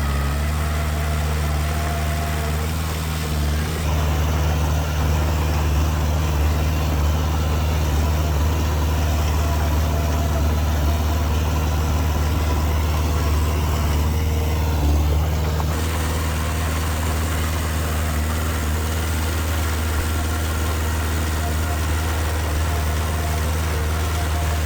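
Diesel engine of heavy earthmoving machinery running steadily. About four seconds in it grows louder and busier, and it eases back about sixteen seconds in.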